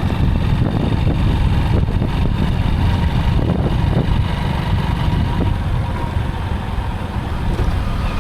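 Motorcycle running steadily while being ridden, its engine and road noise mixed with a heavy, buffeting wind rumble on the microphone.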